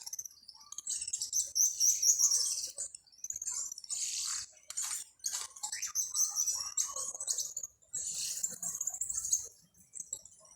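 Birds chirping and twittering in quick, high-pitched bouts of a second or two, several in a row with short pauses between them.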